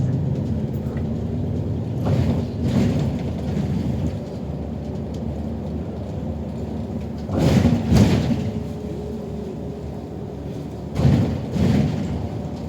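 Inside a moving city bus: a steady low rumble of engine and road, broken by several loud thuds and jolts, with two bigger ones about halfway through and near the end.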